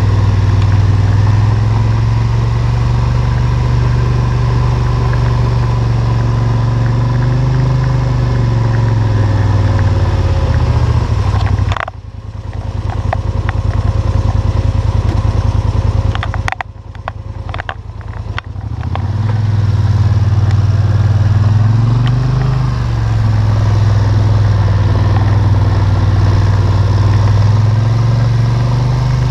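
ATV engine running under load while climbing, its pitch rising and falling with the throttle. About twelve seconds in the engine drops off sharply, with a few clicks and rattles in a quieter stretch, then builds back up and runs steadily again.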